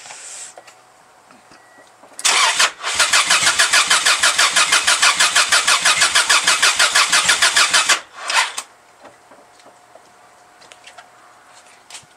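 Subaru EJ22 flat-four being turned over by its starter for about six seconds with a fast, even chugging of about six beats a second. It does not catch, stopping abruptly, and a brief second blip of cranking follows.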